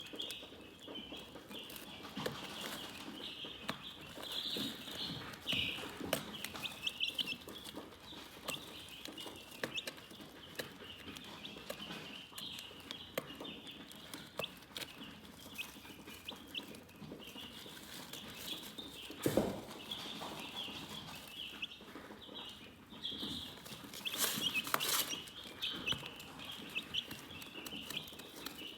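Chickens chirping continuously, many short high-pitched calls overlapping. A single thump comes about two-thirds of the way through, and there is a brief rustling scratch a little later.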